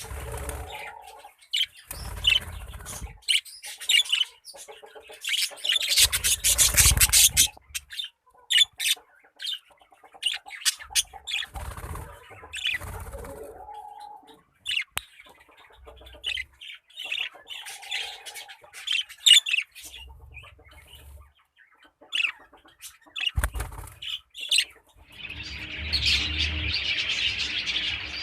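Parrots giving short, scattered chirps and squawks, mixed with some low thumps and rustles. From about 25 seconds in, many calls overlap in a dense chatter.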